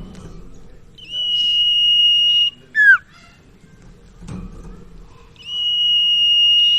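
Common iora (sirtu/cipoh) singing: a long, level, clear whistle held about a second and a half, ended by a short, sharply falling note. A second long whistle starts near the end.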